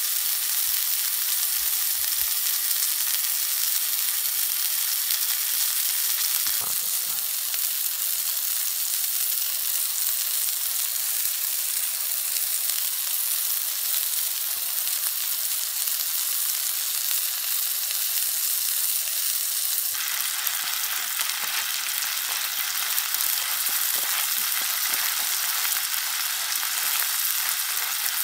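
Hamburger patty frying in oil in a skillet over campfire embers: a steady sizzle.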